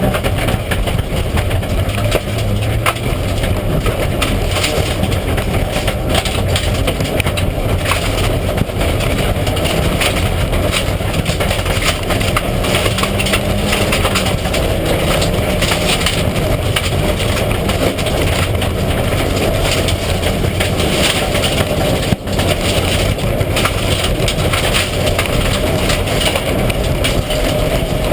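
Mitsubishi Lancer Evolution IX rally car at speed on a stage, with its turbocharged four-cylinder engine running hard under a steady wash of road noise and many small knocks and rattles throughout.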